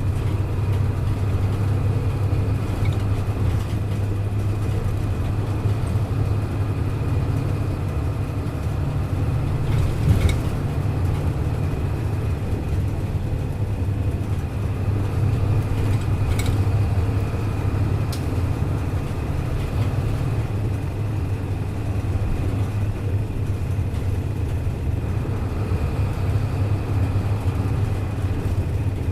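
Hino Blue Ribbon KC-HU2MMCA bus under way, its diesel engine giving a steady low drone with a faint thin whine above it. Two short sharp knocks come about ten seconds in and again about six seconds later.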